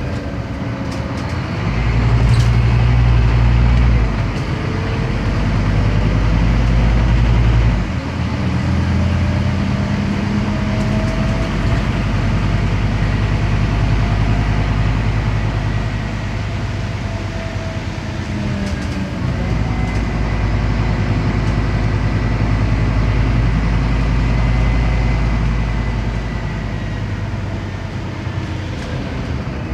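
Scania CN270UB city bus's five-cylinder diesel engine pulling the bus away, its note building and then dropping sharply at gear changes about 4 and 8 seconds in. It runs steadily under load with a faint drivetrain whine, dips again about two-thirds of the way through, and eases off near the end.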